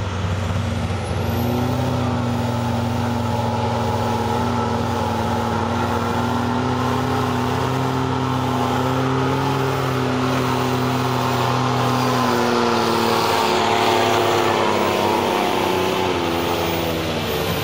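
Diesel pickup truck engine held at full throttle under heavy load as it pulls a weight-transfer sled. It runs at a near-constant high pitch, then sags lower in the last few seconds as the truck bogs down and the pull ends.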